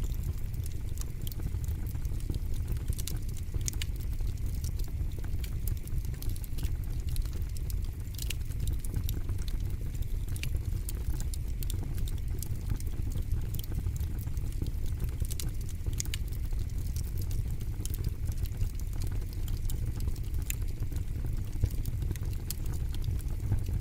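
Fire burning in a fire pit, crackling steadily with frequent sharp pops and snaps over a steady low rumble.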